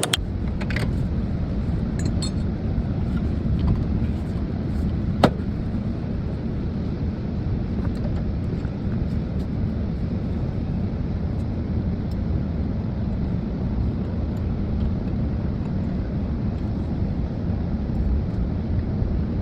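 Steady low rumble of vehicle noise, with a single sharp click about five seconds in.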